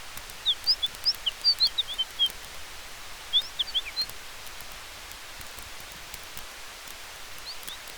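A bird calling in two quick runs of short, high chirping notes, with a few more notes near the end, over a steady hiss of wind and campfire with faint crackles.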